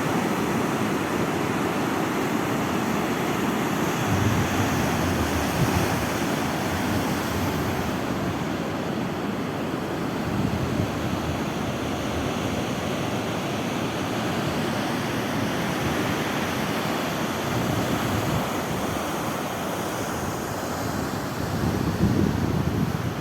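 Sea waves washing onto the shore, a steady rush of surf, with gusts of wind buffeting the microphone, strongest near the end.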